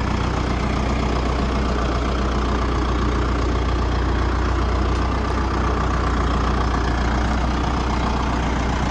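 Deutz-Fahr K120 tractor's turbocharged four-cylinder diesel engine idling steadily.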